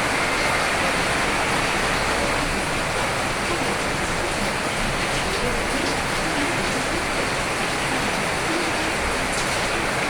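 Steady rain falling, a dense, even hiss with no pauses.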